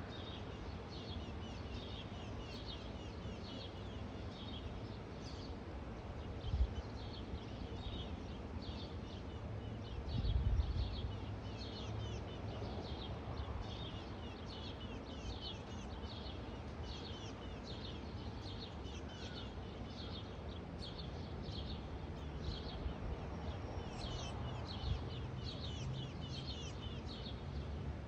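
Bird chirps: a steady series of short, high calls, about two a second, heard as a nest of young birds calling. Low rumble of wind or handling noise underneath, with a soft bump about ten seconds in.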